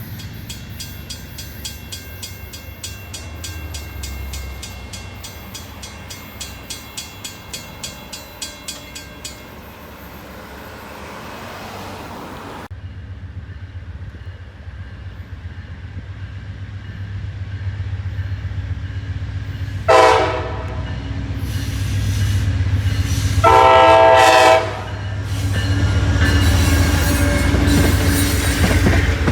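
A railroad crossing bell rings rapidly and stops. Then the horn of an Amtrak P42DC diesel locomotive sounds a short blast and a longer one as the train approaches. Its rumble and wheel clatter grow loud as it passes.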